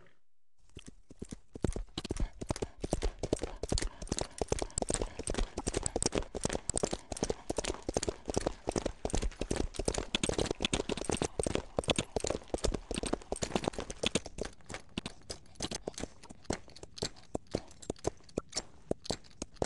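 Horse sound effect: rapid galloping hoofbeats, a fast, even clatter of hooves starting about half a second in.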